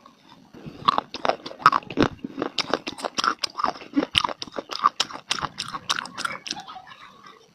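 Close-up crunching and chewing of dry clay (mitti): a quick run of sharp cracks and crackles as pieces are bitten and ground between the teeth, starting about a second in and thinning out near the end.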